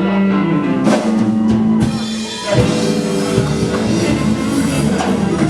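Live blues band playing, with drum kit and guitar; a loud drum hit about two and a half seconds in.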